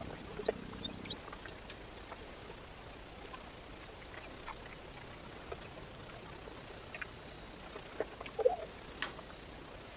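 Small animals feeding at a feeding station: sparse light taps and clicks over a steady hiss, a little busier near the end.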